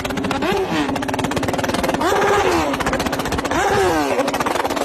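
Motorcycle with a loud exhaust idling and revved in three quick throttle blips, the pitch jumping up and dropping back each time: a small blip about half a second in, then two bigger ones about two and three and a half seconds in.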